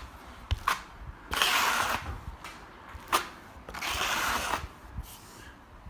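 A plastering trowel is drawn across wet plaster on a ceiling to feather it over the edges of a filled crack. There are two long scraping strokes, about a second apart, and a few sharp clicks of the blade.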